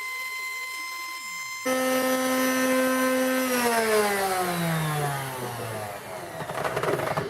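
A power tool's electric motor whines steadily at one pitch. It then jumps to a louder, lower tone that holds for a couple of seconds, and the pitch falls steadily as the motor spins down. The sound turns rough and noisy near the end.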